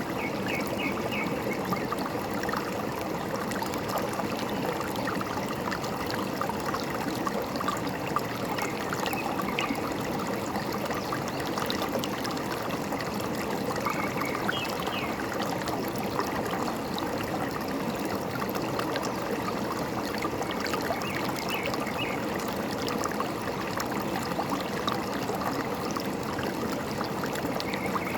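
Forest stream babbling and trickling steadily, with a few short, faint bird chirps now and then.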